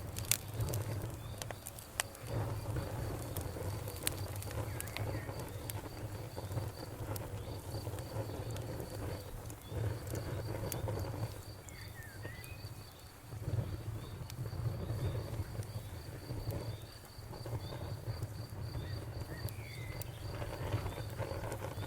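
Campfire crackling, with sharp irregular pops over a low steady rumble of flame. Behind it, an insect chirps in a rapid even pulse, and a few short higher chirps come now and then.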